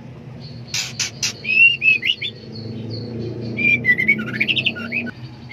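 Female white-rumped shama (murai batu) calling: three sharp clicks about a second in, then two bursts of short whistled notes that rise and fall. These are the calls of a hen in breeding condition calling for a male.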